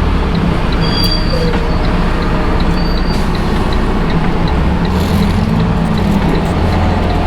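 Semi truck running at steady speed: a constant engine drone with road and wind noise.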